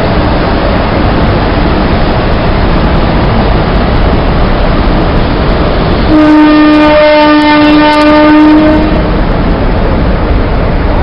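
Indian Railways electric locomotive running with a loud, steady rushing noise. About six seconds in, its horn sounds one long blast of roughly two and a half seconds, broken briefly just after it starts.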